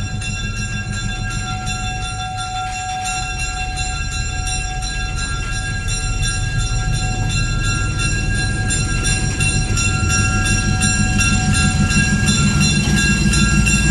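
Switcher locomotive approaching, its low rumble growing steadily louder, with its bell ringing in even strokes.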